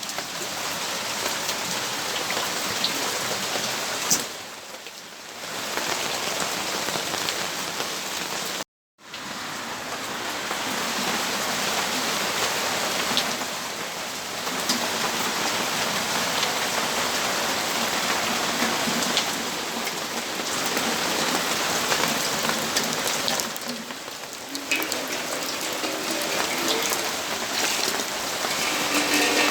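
Steady rainfall, an even hiss with a few brief dips in level and a split-second dropout to silence about nine seconds in.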